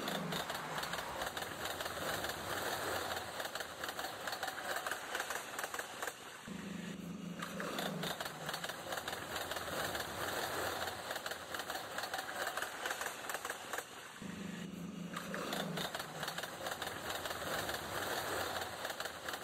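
Cartoon train sound effect: a dense, rapid rattling clatter of train wheels running on the track, broken by a short low droning tone about seven and fourteen seconds in.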